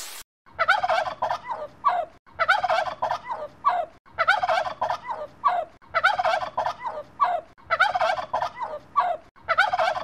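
Male turkey gobbling over and over: about six rapid gobbles in a row, each lasting a second or more, one roughly every second and a half.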